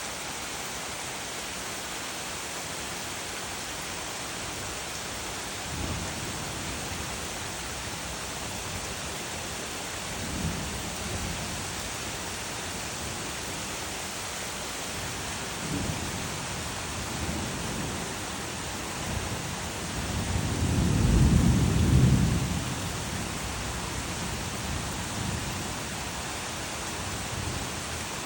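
Steady rain hissing, with low thunder rumbles: short ones about six, ten and sixteen seconds in, then a longer, louder rumble that swells from about twenty seconds in and fades a few seconds later.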